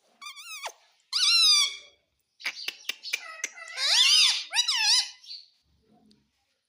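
Pet parrot making a series of high, warbling squeaky calls, with a quick run of sharp clicks in the middle.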